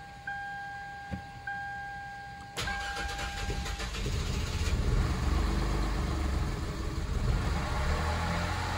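Warning chime of a 2007 Lexus IS250 sounding a repeated two-tone ding about once a second. About two and a half seconds in, its 2.5-litre V6 cranks briefly, catches and settles into a steady idle.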